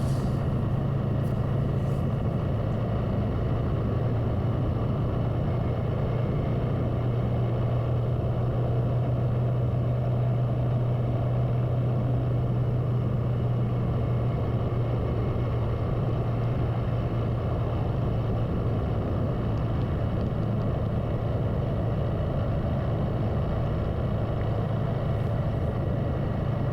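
Motorcycle engine running at a steady cruising speed, a constant low hum with an even rush of road and wind noise and no change in pitch.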